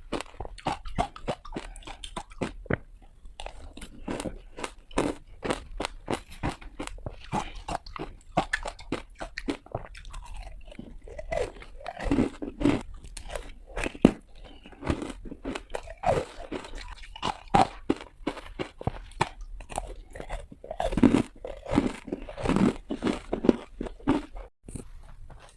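A person biting and chewing hard ice close to the microphone: an irregular run of sharp crunches and cracks, with heavier chewing crunches about halfway and again near the end.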